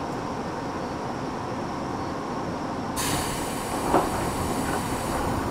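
Electric train standing at a station, with a steady hum from its equipment. About three seconds in, a sudden hiss of compressed air starts, and a short knock follows a second later.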